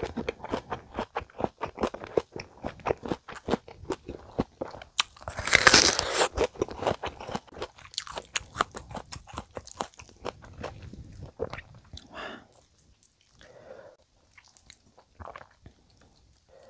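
Close-miked chewing of a mouthful of lettuce-wrapped spicy chicken and raw vegetables, with many rapid crisp crunches. A louder noisy burst comes about five seconds in, and after about twelve seconds the chewing thins out to a few soft sounds.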